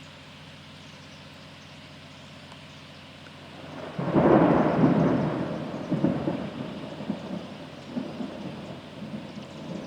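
Steady rain, then about four seconds in a thunderclap breaks loud and rolls on as a rumble with repeated cracks that slowly fades.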